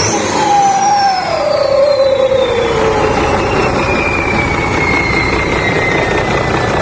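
Twin turbochargers on a combine harvester's Hino J08C diesel engine whistling over the engine's running, the high turbo whine falling steadily in pitch over several seconds as the revs come down.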